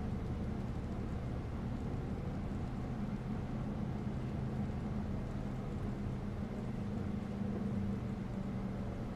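Bus engine running steadily with road noise: a continuous low engine tone over rumble and hiss, with no sudden events.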